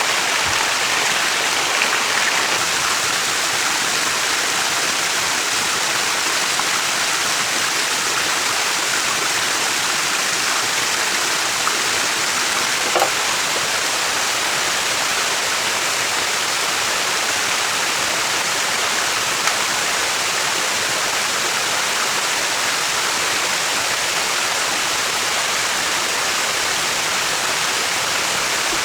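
Steady rushing of running water, with a faint tick about halfway through.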